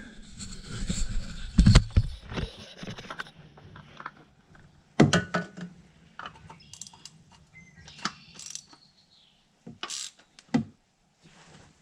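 Metal clinks and knocks of an oil filter wrench being fitted onto the car's oil filter and worked to loosen it. The knocks come irregularly, the loudest about two seconds in.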